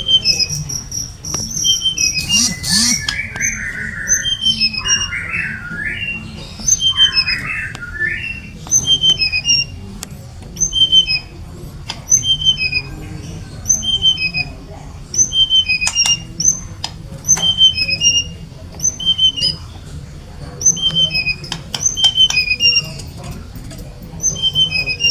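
Brown-chested jungle flycatcher singing: short, high two-part phrases repeated about once a second. Between about two and eight seconds in there is a run of lower, harsher notes, and a few sharp clicks come later.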